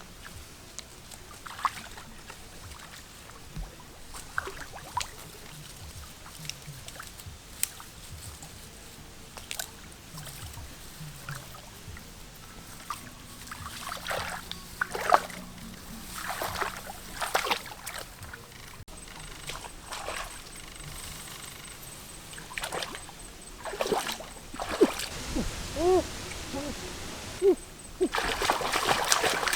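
Water splashing and sloshing in short, irregular bursts, with a few bubbling plops near the end.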